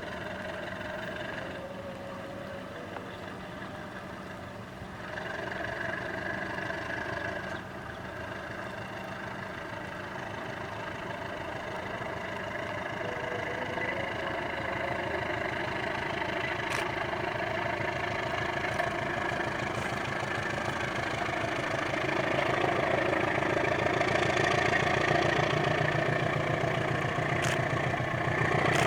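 Diesel engine of a General Electric CC 203 diesel-electric locomotive running, growing steadily louder as the locomotive pulls away with its train, with a brief louder stretch about five seconds in.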